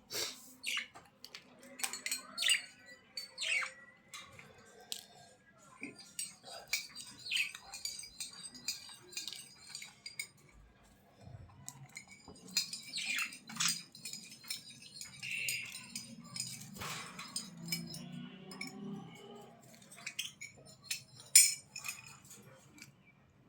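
Small birds chirping and chattering in short high calls, mixed with many sharp clicks and taps.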